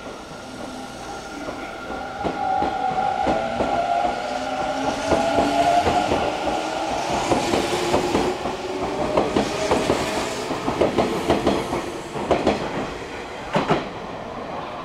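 Kintetsu electric train running along the platform: wheels clack over rail joints in quick irregular runs, over a whine that slides down in pitch. It is loudest in the middle and ends with a few sharp clacks.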